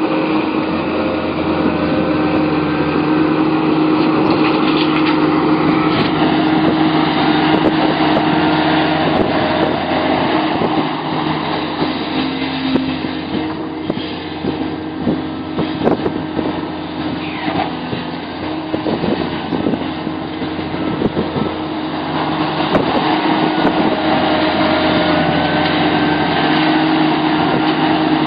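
Sumitomo SH700LHD-5 excavator's diesel engine running under load, with a whine from the hydraulics that rises and falls as the machine works and occasional short knocks, several of them in the middle.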